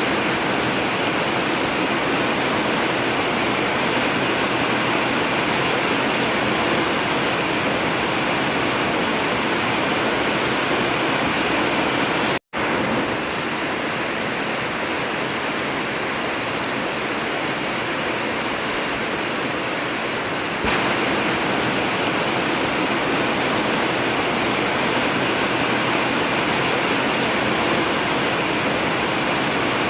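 Heavy rain falling steadily on an old corrugated zinc (tin) roof, an even, unbroken rush. It cuts out for a split second about twelve seconds in, and gets slightly louder about twenty seconds in.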